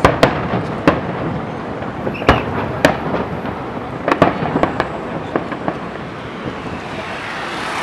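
Fireworks bursting overhead: sharp bangs at irregular intervals, several close together about halfway through, over a continuous rushing noise between them.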